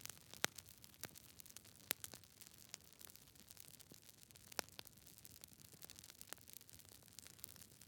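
Campfire crackling, with irregular sharp pops over a faint low hiss of burning. The loudest pops come about half a second in, at about two seconds and at just under five seconds.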